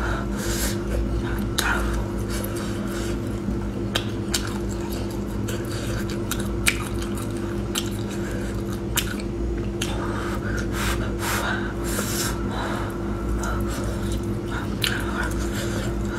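Close-up chewing and wet mouth sounds of someone eating grilled sausage, with sharp lip smacks and clicks, over a steady low hum.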